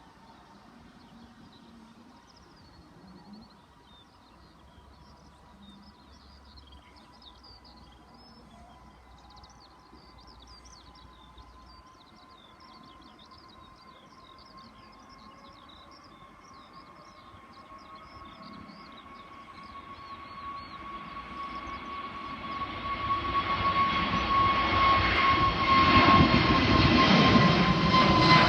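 Jet airliner's engines approaching: a faint steady whine that swells into engine noise, growing steadily louder over the last third.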